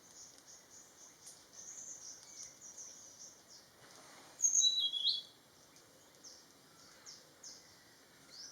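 Birds chirping and calling: a run of short, high chirps, with one louder call about halfway through that steps down in pitch.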